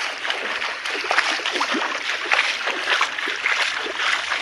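Floodwater splashing and gurgling steadily, a dense run of small splashes.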